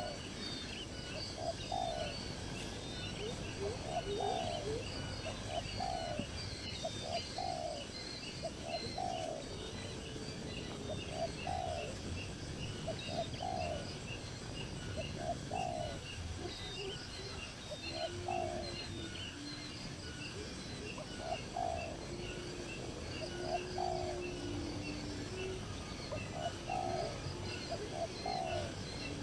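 Several birds calling: short rising calls in pairs repeating every second or two over a steady high twittering, with a few longer, lower cooing notes in the middle and near the end.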